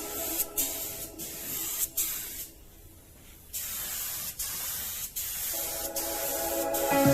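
Compressed-air paint spray gun hissing in passes broken by short stops, with a longer pause of about a second midway, as it sprays polyurethane paint. Background music comes back in near the end.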